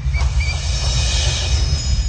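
A steady low rumble with a few short chirps, then a rushing noise that swells through the middle, with thin, steady high ringing tones coming in near the end.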